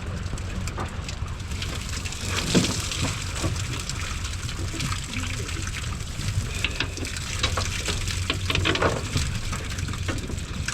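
Water splashing and streaming as a cast net is worked in the water for herring, with stronger splashes about a quarter of the way in and again near the end, over a steady low rumble.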